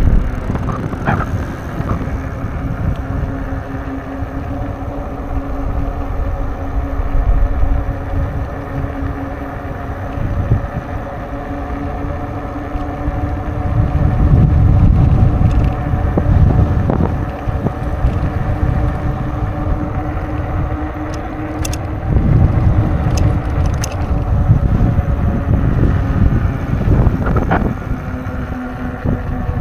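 Wind buffeting the microphone of a moving bicycle, swelling in gusts, over a steady droning hum that holds without change.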